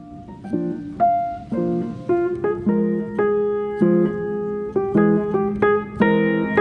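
Background piano music: chords and single notes struck one after another, each ringing out and fading.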